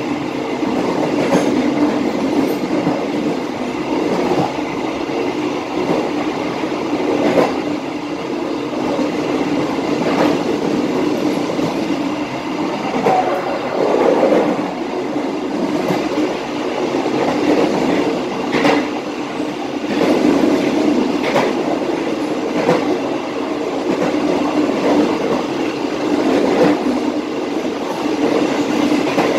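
Passenger train running along the track, heard from the rear of the last coach: a steady rumble of wheels on the rails, broken by irregularly spaced sharp clicks as the wheels pass over rail joints.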